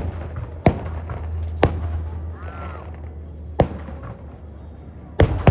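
Aerial fireworks going off: about five sharp booms, irregularly spaced over a few seconds.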